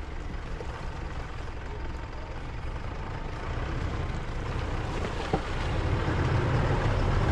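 Mitsubishi Pajero IV's engine running as the SUV starts to crawl over rough forest ground, a low rumble that gets louder over the last few seconds. A single sharp click a little after five seconds in.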